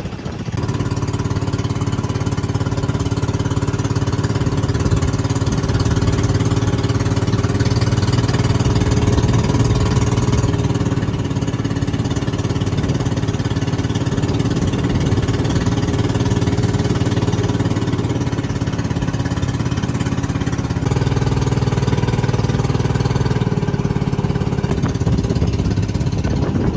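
A vehicle's engine running steadily, heard from on board while travelling, with a slight change in its note about three-quarters of the way through.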